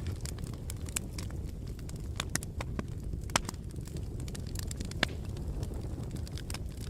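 Fire burning in a fireplace, crackling: a steady low rumble of flames under frequent sharp pops and snaps, with two louder pops about three and a half and five seconds in.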